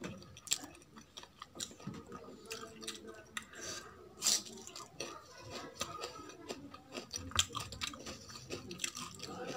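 Close-up chewing and mouth sounds of a person eating rice with kadhi pakoda (gram-flour fritters in yogurt curry), with irregular soft clicks and smacks.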